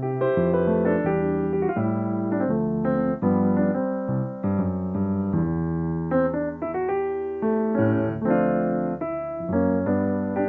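Solo piano playing: chords under a melody, with new notes struck every half second or so.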